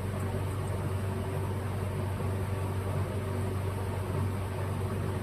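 Steady mechanical hum with a strong low drone, unchanging throughout.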